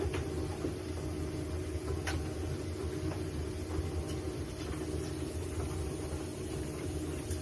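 Steady low mechanical hum and rumble with a few faint clicks.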